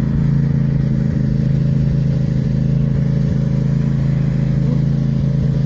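An engine running steadily at a low, even pitch, having just grown louder as it came near.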